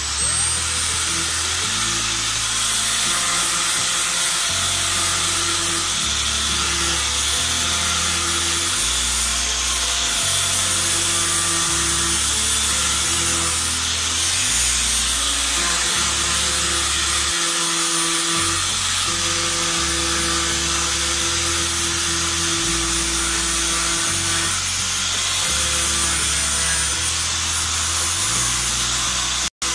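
Small electric rotary sander running steadily on a car's painted body panel, with a high whine. Background music with a bass line plays underneath, and both drop out for an instant near the end.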